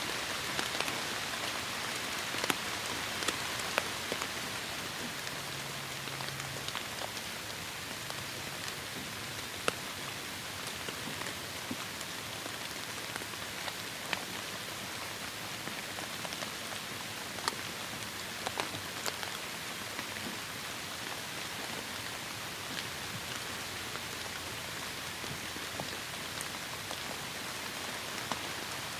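Steady heavy rain: a constant hiss of rainfall with individual drops ticking sharply here and there.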